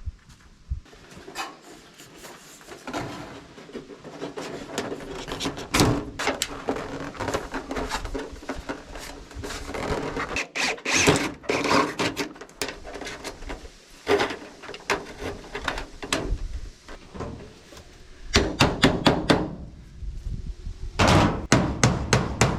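Irregular knocks and clattering of hand work with building materials, several strokes coming in quick runs near the end.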